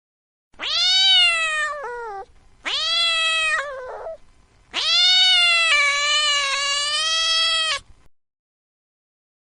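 Domestic cat meowing three times: two meows that drop in pitch at the end, then a long drawn-out meow of about three seconds.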